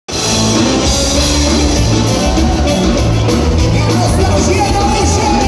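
Live gaúcho band playing upbeat dance music in a vanera style, with a heavy bass line and steady drums, cutting in abruptly at the start.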